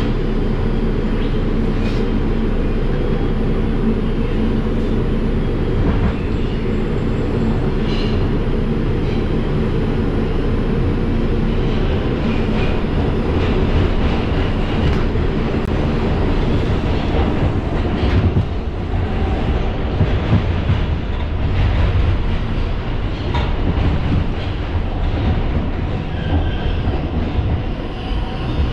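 Inside an R142 subway car running between stations: a steady low rumble of steel wheels on the rails, with scattered clicks from the track joints.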